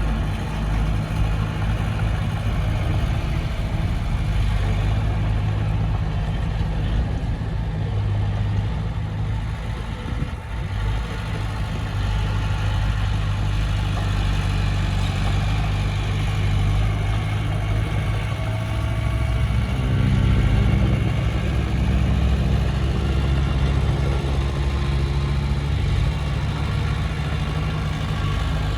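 Komatsu D20P bulldozer's diesel engine running steadily; about two-thirds of the way in its pitch shifts and it grows louder, as the engine takes on more load or throttle.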